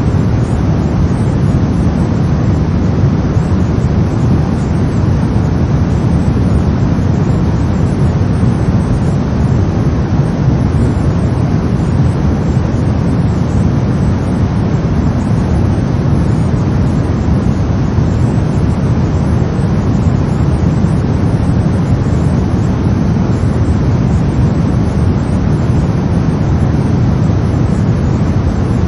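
Brown noise: a steady, deep rumbling hiss with most of its weight in the low end, unchanging throughout.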